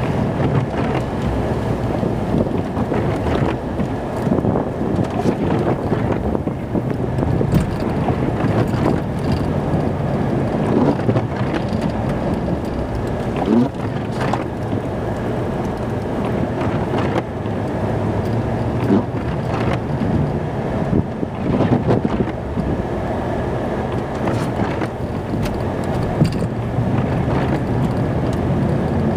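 Snow plow truck's engine running steadily while pushing snow, heard from inside the cab, with occasional short knocks.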